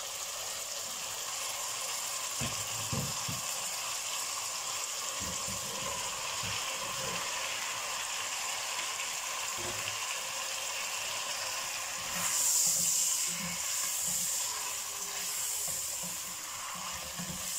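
Chicken pieces frying in oil in a wok, sizzling steadily, with the scrapes of a spatula stirring them. Chopped tomatoes go into the pan partway through, and about twelve seconds in the sizzle swells louder for a few seconds.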